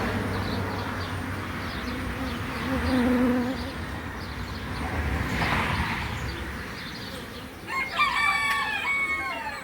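A rooster crowing once near the end, one long stepped call.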